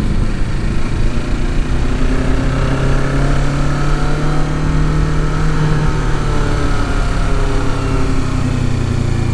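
Kawasaki Ninja 650's parallel-twin engine running under way, its pitch climbing gently for a few seconds and then easing off slightly, with wind noise on the microphone.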